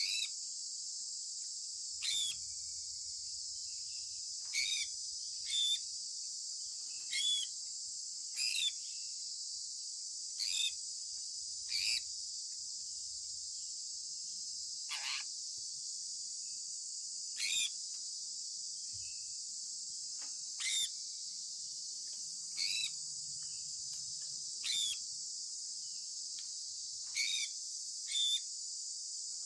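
Sun conure parrot chirping: short, falling chirps repeated about every second or two, over a steady high-pitched hiss.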